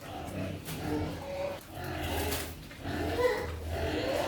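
Farm animals calling, a run of short calls one after another.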